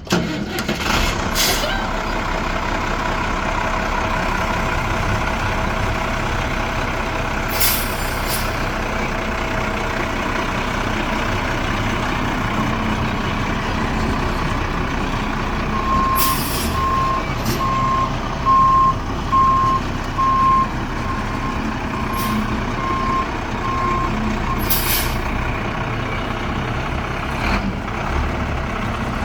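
1997 Ford F700 dump truck's 8.3-litre inline-six diesel running steadily. A few short hisses of air break through, and from about halfway a backup alarm beeps roughly once a second for some eight seconds.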